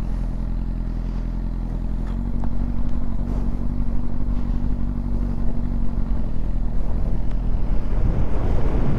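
Yamaha R6 inline-four engine running at a steady idle. About six seconds in, its note changes and the sound grows rougher, with low wind rumble on the microphone underneath.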